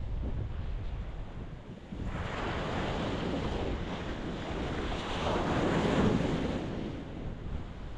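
Ocean waves breaking on a rocky shore: the surf eases briefly, then a new wave swells from about two seconds in and is loudest around six seconds before easing off.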